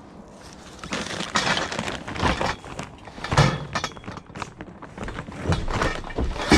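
Scrap metal clattering and crashing in a run of irregular knocks and clinks as it is handled and loaded, starting about a second in.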